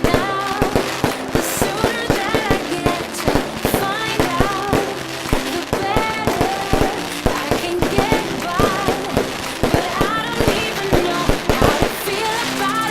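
Fireworks going off in many quick sharp bangs and crackles over music playing from a sound system.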